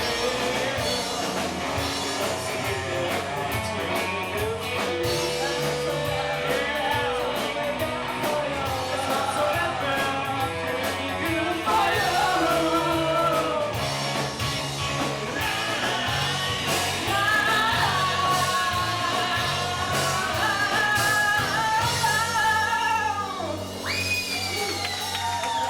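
A rock band playing live, with a singer over guitar and a steady beat. Near the end a high note rises and then falls as the song draws to its close.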